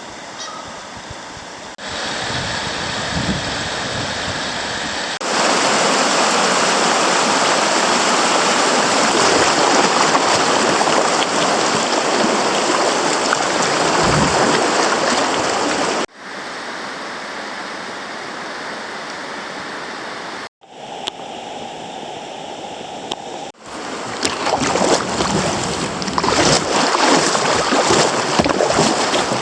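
Creek water flowing, heard as a steady rushing through a string of cuts. Its loudness jumps suddenly at each cut and is strongest in the middle and near the end.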